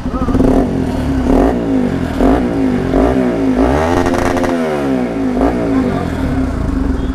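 Bajaj Pulsar NS200's single-cylinder engine, fitted with an aftermarket Akrapovic full-system exhaust, idling loudly with several quick throttle blips. The biggest rev rises and falls about four seconds in.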